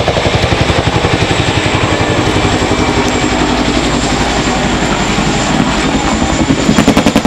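Boeing Chinook tandem-rotor helicopter running loud: its twin rotors beat in a rapid, even blade slap over a steady high whine, the beat growing louder near the end.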